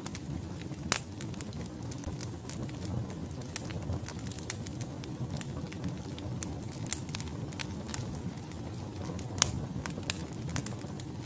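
Wood fire burning in a fireplace, with a low steady rumble of flames and many irregular sharp crackles and pops from the logs. A few pops stand out louder, one about a second in and another near the end.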